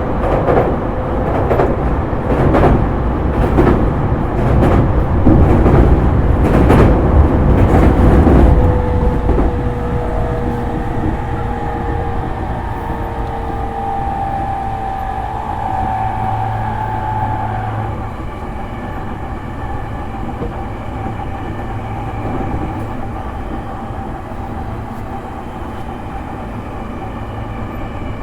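JR East E231-series electric commuter train heard from inside a motor car while running. For the first eight seconds or so the wheels clatter loudly over rail joints and points. After that the ride settles into a quieter steady rumble with a faint motor whine.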